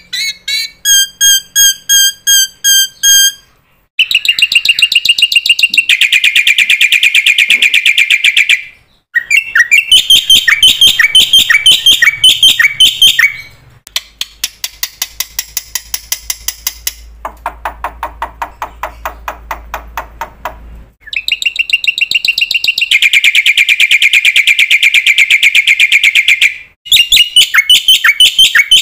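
Bird calls: a run of loud phrases of rapidly repeated whistled notes, each lasting a few seconds and changing abruptly to the next, one phrase lower-pitched than the rest.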